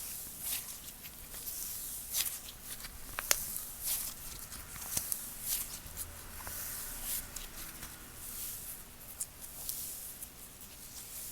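Slime being squished, stretched and poked by hand: a run of small sticky clicks and crackles, with a few sharper snaps.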